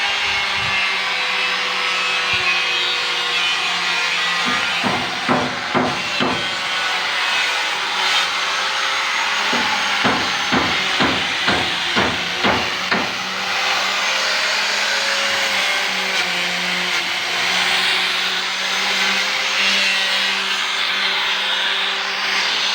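Electric sander running steadily, sanding the metal body of a refrigerator before painting. Two runs of sharp knocks about half a second apart cut in, a few around five seconds in and about eight more near the middle.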